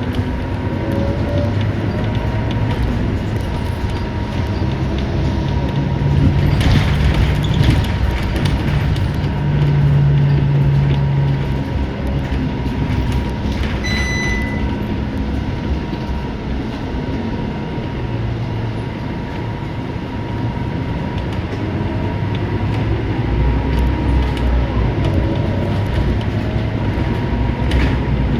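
Interior of a Scania K230UB single-deck city bus on the move: the diesel engine and drivetrain drone steadily under road and body noise, the engine note rising and falling as the bus speeds up and slows. A short beep sounds about halfway through.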